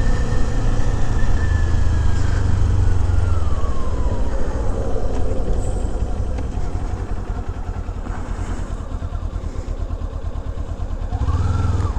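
Kawasaki Z400 399 cc parallel-twin engine under way, its pitch falling over a few seconds as the bike slows off the throttle, then running steadily. A short rise and fall of revs comes near the end, over a steady rush of riding wind on the helmet camera's mic.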